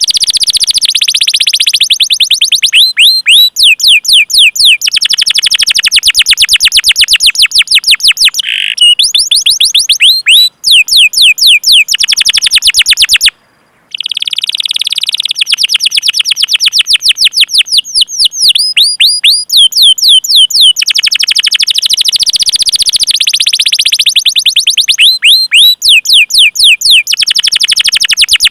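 Domestic canary singing loudly: long runs of rapid, repeated sweeping chirps rolled into trills, broken by short pauses and a brief silent gap about halfway through.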